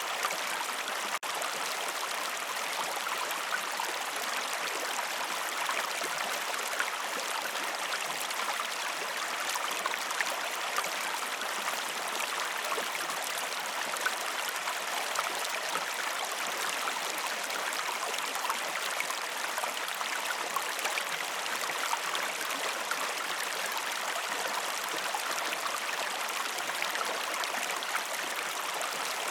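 A river or stream rushing and babbling steadily over rocks, with a brief dip in level about a second in.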